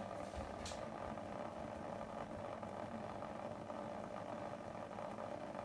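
Steady hum of a small electric motor running, with one faint click about half a second in.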